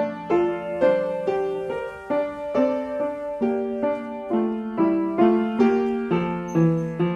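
Piano playing ballet class accompaniment, a steady run of notes and chords struck about twice a second.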